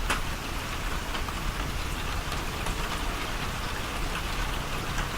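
Heavy rain falling and pattering on surfaces, a steady hiss with many small drop ticks, and one sharp click right at the start.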